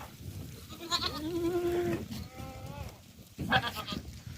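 Goat bleating: one call about a second long starting about a second in, then a fainter second bleat. A short, sharp, louder sound comes about three and a half seconds in.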